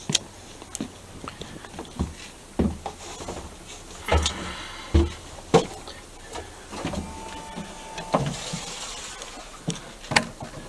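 Footsteps and handling knocks: a series of irregular short thumps and clicks, most of them in the middle few seconds.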